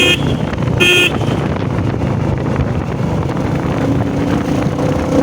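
Two short beeps of a vehicle horn, the first cutting off right at the start and the second about a second in, over the steady running noise of a motorcycle ride.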